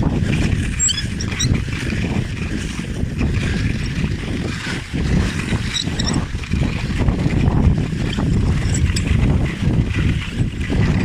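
Wind rumbling on the microphone of a rider moving at about 15–20 km/h behind a kite, with a few faint high chirps.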